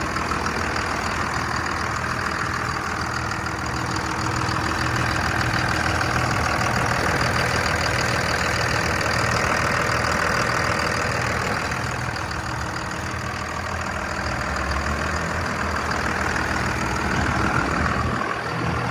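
Cummins six-cylinder turbo diesel in a 2000 Dodge Ram 2500, idling steadily.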